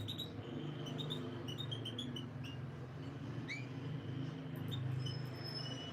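Canaries giving short, sparse chirps and a few quick upward-sweeping call notes, over a steady low hum.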